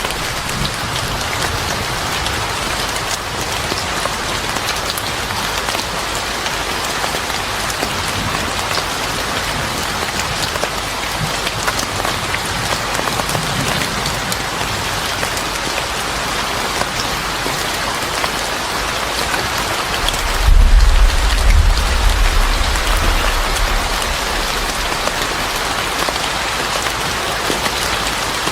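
Steady rain falling and pattering on surfaces, with a low rumble rising about twenty seconds in and fading over a few seconds.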